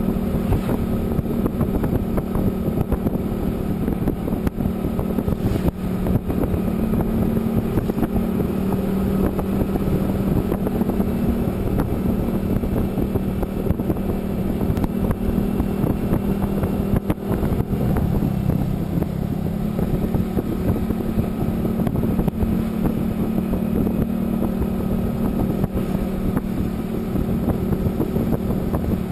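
A motor vehicle's engine running steadily at cruising speed, with a constant low hum and road rumble; the engine note shifts slightly about two-thirds of the way through.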